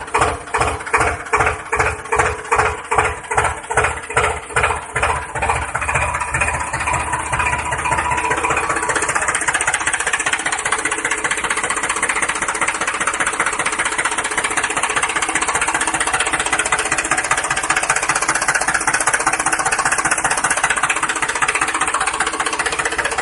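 DIY mini tractor running with a chugging beat of about two to three pulses a second. The beat quickens and blends into a steady engine drone by about seven seconds in.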